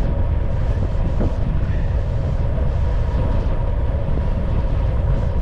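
Steady low rumble of wind buffeting the microphone along with road noise while moving along the road, with no break or change.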